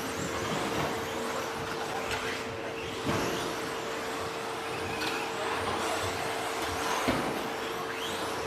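Electric 2WD stadium trucks with 13.5-turn brushless motors racing on a dirt off-road track: motor whine rising and falling with throttle over the noise of tyres on dirt, with a steady hum underneath. Two sharp thuds come about three and seven seconds in.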